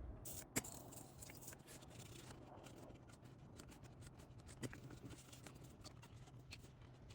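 Near silence: faint room tone with scattered small clicks and taps, a sharper click about half a second in and another near five seconds.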